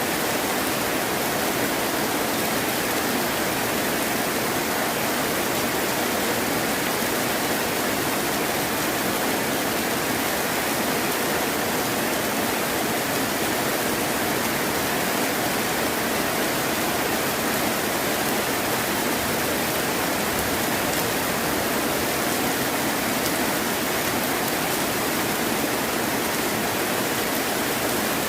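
Heavy rain falling steadily, an even, unbroken hiss with no thunder or other events.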